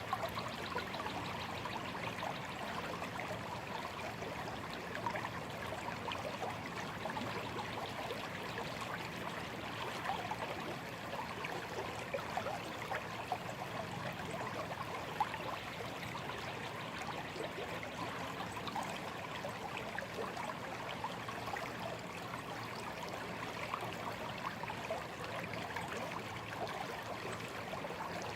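A shallow stream flowing steadily, water trickling and babbling over stones.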